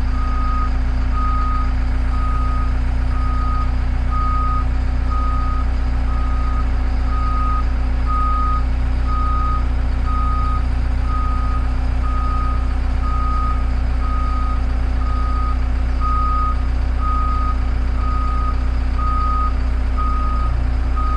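Caterpillar IT-24 tool carrier's diesel engine running steadily, with a warning alarm beeping about once a second over it.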